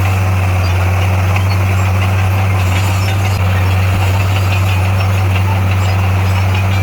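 Heavy diesel engine of a Komatsu D58A bulldozer running steadily with a deep, even hum.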